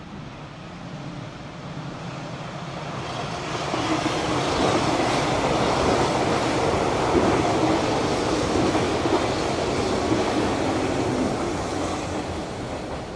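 Hanshin 8000 series electric train approaching and passing close by, its wheels running on the rails. The sound builds for about four seconds, holds loud while the cars go past, and fades as the train moves away.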